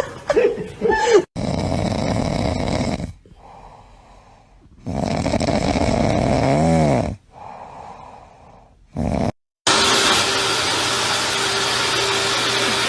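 An animal snoring, with two long, loud snores about three and a half seconds apart and quieter breaths between them. About three-quarters of the way in, this gives way to a steady hiss.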